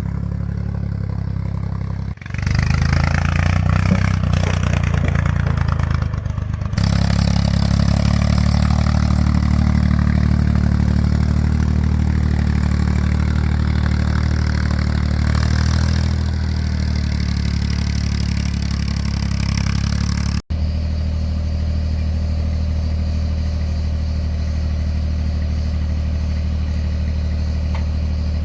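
An engine running steadily under load. It cuts off abruptly and changes about 2 and 7 seconds in, and drops out for an instant about 20 seconds in.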